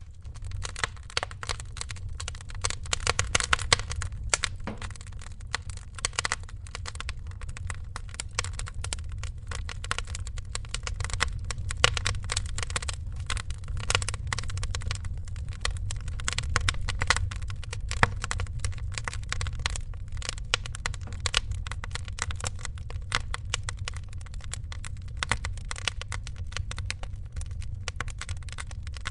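Wood fire crackling, with dense irregular pops and snaps over a steady low rumble.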